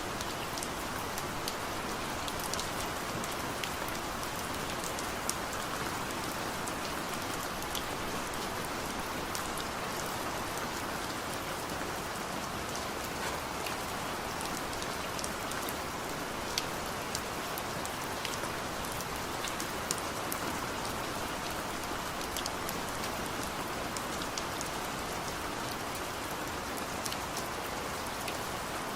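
Heavy rain falling steadily, a dense even hiss with many individual drops ticking sharply on a surface.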